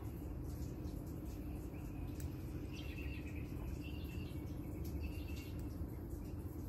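Faint bird chirps in the middle stretch over a steady low hum, with scattered light clicks.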